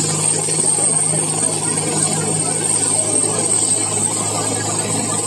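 Helicopter running steadily, a continuous engine and rotor noise with a high whine held throughout.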